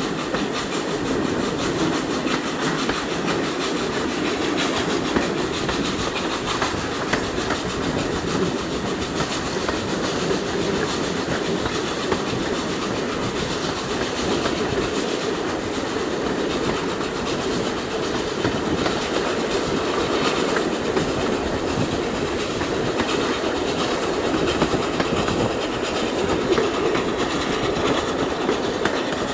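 Passenger train running along the line, heard from an open carriage window: a steady rumble of the coach on the track with frequent clicks of the wheels over the rail.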